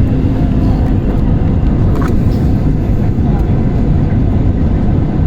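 Airliner cabin noise during the approach to landing: a steady, loud rumble of engines and airflow with a constant low hum.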